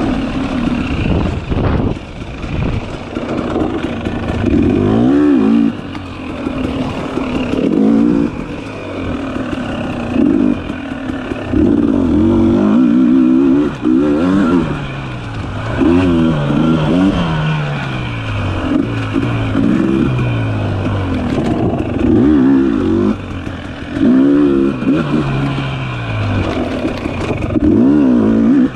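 Dirt bike engine revving up and dropping back again and again as the throttle is worked on and off, with a louder burst every few seconds.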